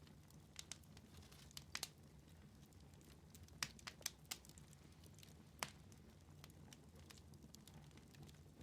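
Wood fire in a fireplace crackling faintly, with scattered sharp pops. The loudest come in a cluster from about three and a half to six seconds in, over a low steady rumble.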